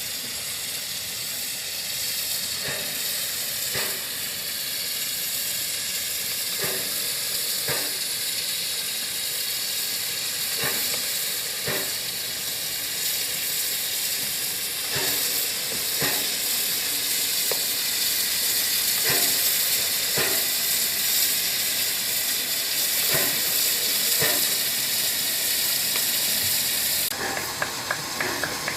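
Steam locomotive hissing steadily as steam escapes, with a light knock every second or two. Near the end the hiss changes and a fast run of ticks begins.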